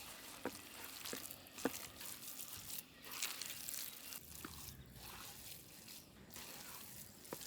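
Hands mixing minced chicken with spices and ginger-garlic paste in a bowl: faint wet squishing with a few short, sticky clicks.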